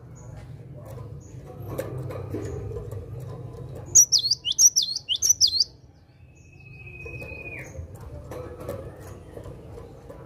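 Cinereous tit (gelatik batu) calling: a quick run of loud, sharp chirps about four seconds in, then a single held whistle that drops in pitch at its end. A steady low hum runs underneath.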